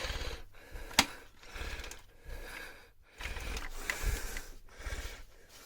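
Plastic parts of a Shark stick vacuum being handled, clicking and rattling, with one sharp click about a second in.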